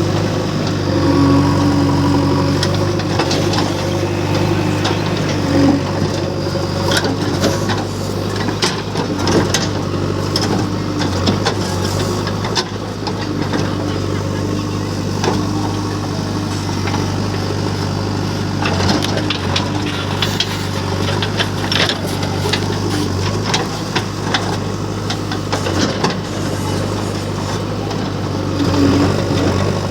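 JCB 3DX backhoe loader's diesel engine running steadily under work, with frequent short clanks and knocks from the bucket and arm while digging.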